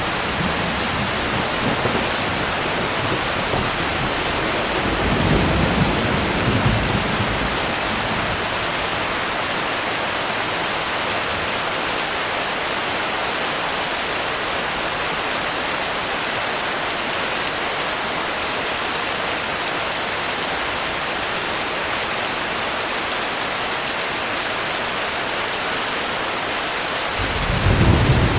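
Steady heavy rain, an even rushing hiss. A low rumble of thunder swells about five seconds in and fades, and another begins near the end.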